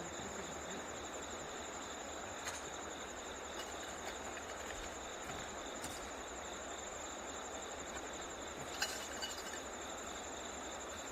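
Insects trilling steadily in two high, continuous pitches over a steady low rush, with a few faint clicks.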